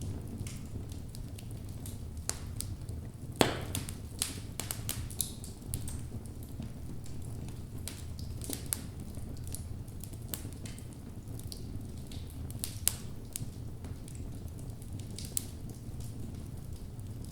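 Wood fire burning in a fireplace: a steady low rumble of the flames with irregular crackles and pops from the burning logs, the loudest pop about three and a half seconds in.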